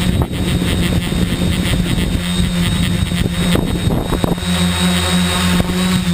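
Tricopter's electric motors and propellers buzzing in flight, with a steady low hum and a faint high whine above it. The motor pitch shifts about two-thirds of the way through.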